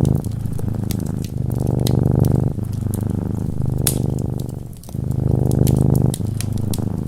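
Cat purring close up, a steady low rumble that swells and eases with each breath in and out, about a second per breath. Sharp little crackles of a wood fire pop now and then over it.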